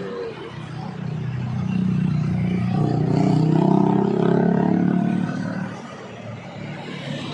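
A truck engine passing close by under load, swelling to its loudest about midway and then fading as it goes away.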